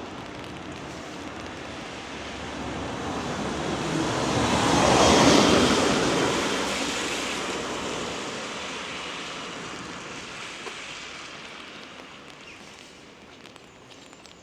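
A vehicle passing on a wet road: tyre hiss swells to a peak about five seconds in and fades slowly away.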